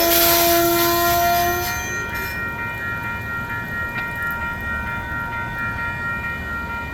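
Amtrak passenger train rolling past, with a steady ringing tone and a high hiss that stop about two seconds in. Then a lower rumble of the train continues, with faint steady high ringing.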